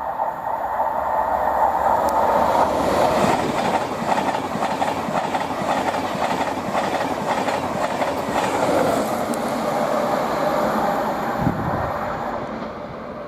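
InterCity 225 set, a Class 91 electric locomotive with Mark 4 coaches and driving van trailer 82205, passing at speed. Wheels roll and clatter rhythmically over the rails, building up, holding through the middle, then fading as it goes by.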